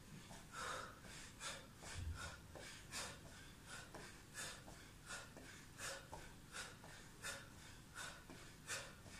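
A man breathing out sharply in a steady rhythm, about one short breath every 0.7 seconds, in time with diagonal crunches.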